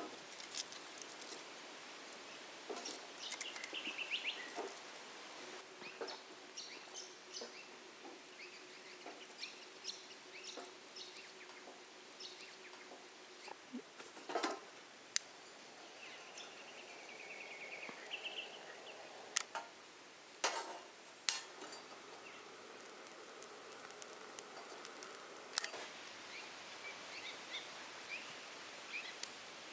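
Quiet outdoor ambience with birds calling in short trills now and then, and scattered sharp clicks and knocks.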